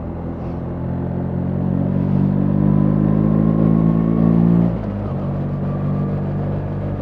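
BMW R 1300 GS boxer-twin motorcycle engine under way, pulling harder and getting louder for a few seconds, then the throttle is shut off about two-thirds of the way through and it drops back to a steadier, quieter run.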